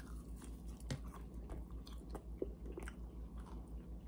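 Two people biting into and chewing sauce-coated breaded chicken bites, with small crisp clicks scattered throughout, over a steady low hum.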